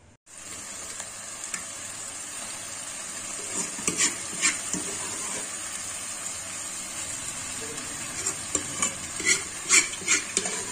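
Saag cooking in butter in a pot on the stove: a steady sizzle and fry that begins abruptly. A few sharp clicks and scrapes of a metal spoon come around the middle and again near the end.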